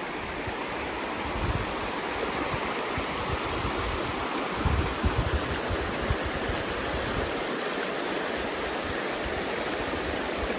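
Creek water rushing steadily, with a few low thuds about a second and a half and five seconds in.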